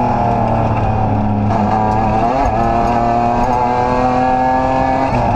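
BMW M3 rally car's engine pulling hard at a steady pitch, heard from inside the cabin. The revs dip and climb again about two seconds in.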